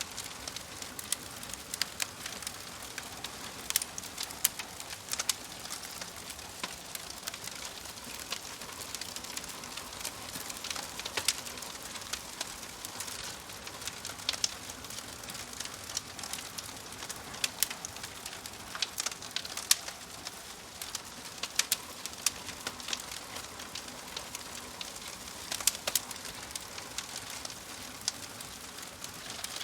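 Wood fire crackling: a steady soft hiss with frequent irregular sharp pops and snaps, some much louder than the rest.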